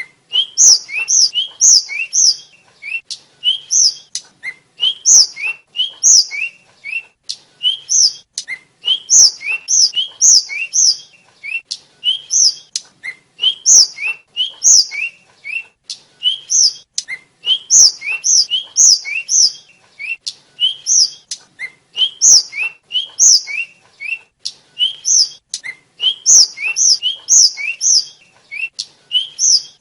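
A sikatan (flycatcher, called tledekan or sulingan) singing continuously: high, thin whistled notes, each sliding down in pitch, given in quick groups of two to four about once a second.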